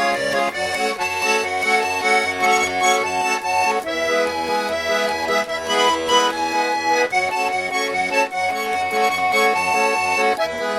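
Instrumental song break: an accordion playing the melody in sustained chords over a steady, regular bass beat.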